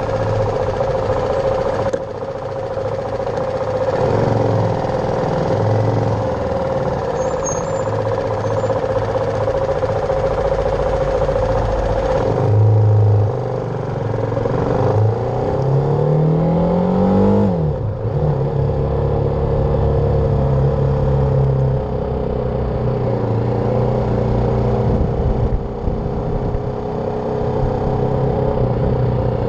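BMW G310R's single-cylinder engine running on the move. Its note rises as the bike accelerates just past the middle, then falls suddenly at a gear change and settles back to steady running.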